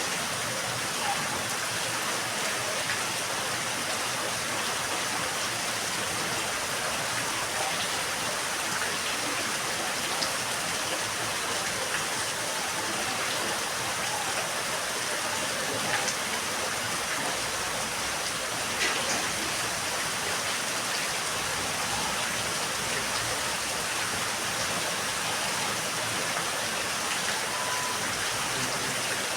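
Steady rain falling in a yard: an even hiss of rain with a few sharper drop ticks here and there.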